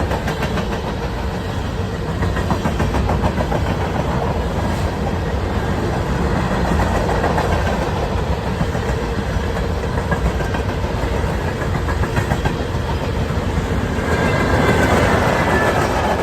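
A train rolling past, its steel wheels clicking rhythmically over the rail joints under a steady rumble. It grows louder near the end.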